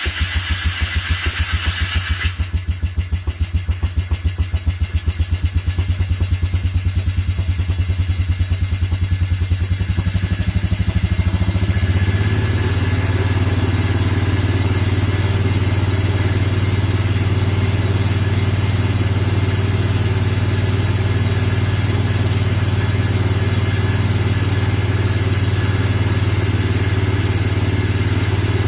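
Vehicle engine just started from cold, running rough and uneven with a pulsing, stumbling beat for about the first twelve seconds, then settling into a steady idle. The harsh running is the cold engine being cranky before it warms.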